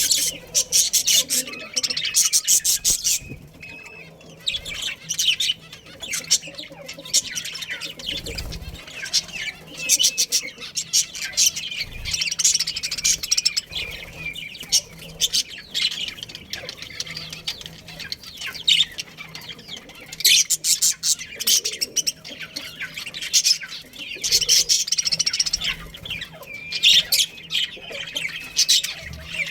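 A group of budgerigars chirping and chattering, with rapid high twittering calls that come in repeated bursts and pause briefly between them.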